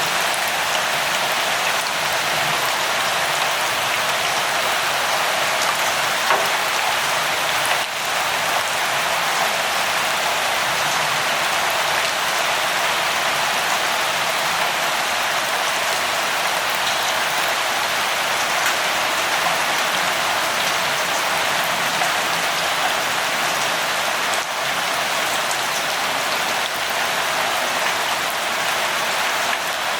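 Steady rainfall, an even hiss of rain with scattered drops pattering on surfaces.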